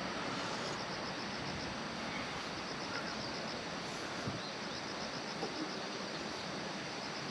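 Outdoor ambience: insects chirping in regular trains of short, high-pitched pulses that come and go, over a steady hiss, with a few faint ticks.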